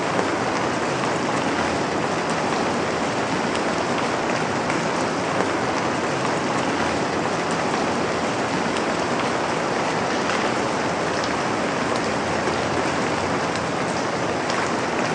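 Steady rain falling, a dense even hiss with scattered drops ticking on a surface.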